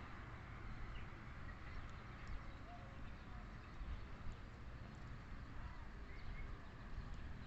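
Faint outdoor ambience: a steady low rumble, like wind on the microphone, with scattered small bird chirps and a few faint ticks.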